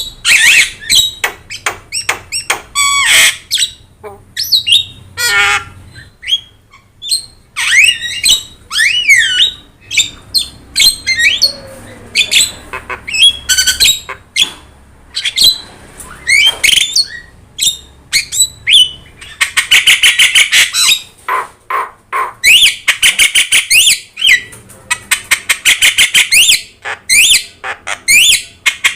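Javan myna (jalak kebo) singing loudly in a varied run of harsh squawks, whistled glides and chatter. From about two-thirds in, the song turns to fast rattling bursts repeated every two to three seconds.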